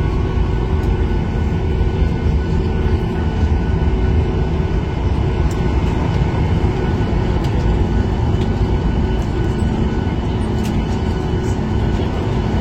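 Steady airliner cabin noise heard from inside the passenger cabin: a deep rumble of jet engines and airflow, with a few faint steady tones, at an even level throughout.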